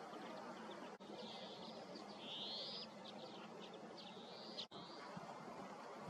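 Birds calling in a series of short high notes, with a longer rasping call about two seconds in, over a steady hiss of wind. The sound drops out briefly twice.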